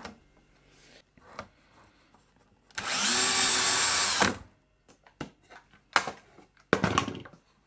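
Power drill spinning up, running steadily for about a second and a half, then winding down. A few knocks and a short clatter follow.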